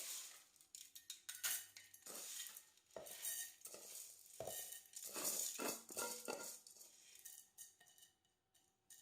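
A utensil stirring raw washed rice mixed with chopped vegetables and chicken, scraping and clinking against the dish in irregular strokes that stop near the end.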